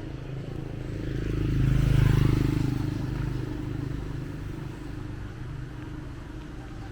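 A motor vehicle passing close by on the street, its engine and tyre noise swelling to a peak about two seconds in and then fading away over low steady traffic noise.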